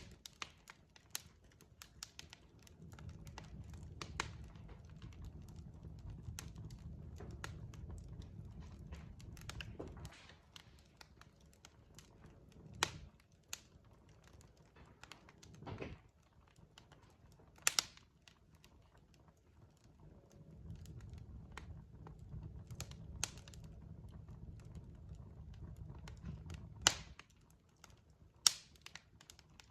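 Logs burning in a fireplace: irregular sharp crackles and pops over a low rumble. The rumble drops away about ten seconds in and comes back about twenty seconds in, and the loudest pops come in the second half.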